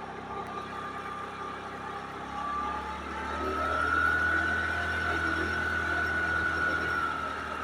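A vehicle's engine running, with a steady whine that rises a little and then falls back, over a low hum.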